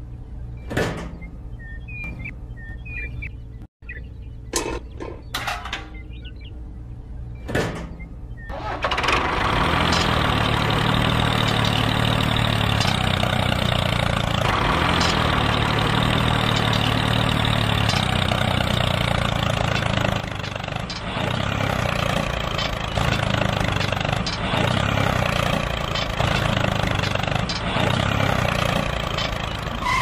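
The small motor of a DIY mini tractor and chaff-cutter model starting up about nine seconds in and running steadily. After about twenty seconds its sound dips and comes in uneven pulses. Before it starts there are a few sharp knocks.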